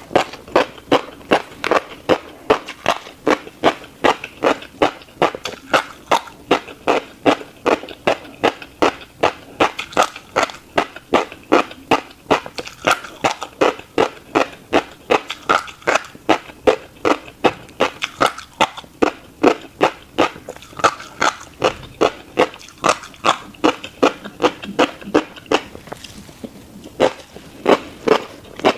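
Close-miked chewing of a mouthful of tiny crunchy seeds: a steady run of short crackly crunches, about two to three a second, with a brief pause near the end.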